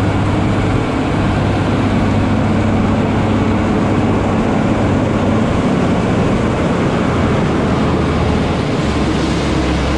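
Large diesel farm machinery running steadily under load: a loud, constant drone with a low engine hum. The low hum drops a little in pitch about nine seconds in.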